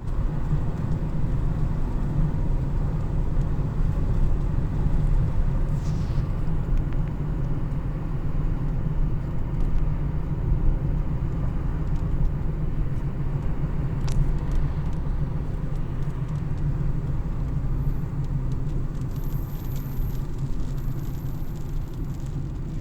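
Car driving along a road: a steady low rumble of engine and tyre noise, with a few faint light ticks near the end.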